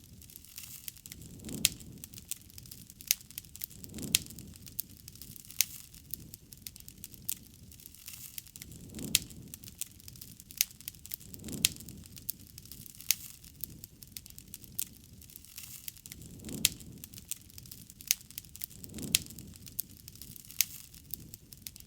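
Campfire burning wood, crackling with frequent sharp pops and snaps. Soft low swells of flame noise rise and fall every few seconds.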